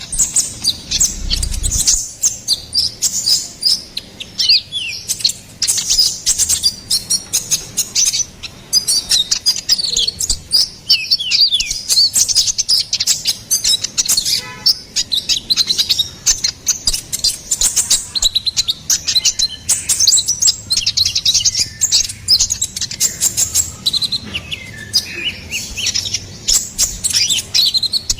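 Konin ('kolibri ninja') sunbird singing a long, rapid, high-pitched run of chirps, trills and twitters, the fast, busy song used as a lure and tutor call for songbirds. There is a brief low bump about a second in.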